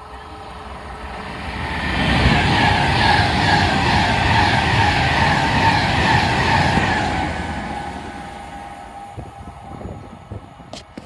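Class 390 Pendolino electric train running through at speed without stopping. The rush of wheel and air noise builds, is loud for about five seconds with a fast repeating clatter, then fades as the train recedes.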